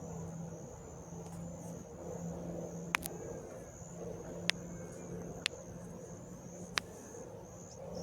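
Distant jet aircraft engine noise: a steady low hum with a thin high whine, broken by four sharp clicks.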